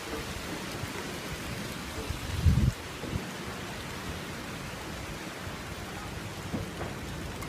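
Thunderstorm rain falling steadily, with a brief loud low rumble about two and a half seconds in and a smaller one near the end.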